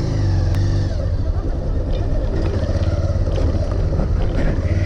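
Motorcycle engine running steadily, a low, even drone that wavers briefly near the middle.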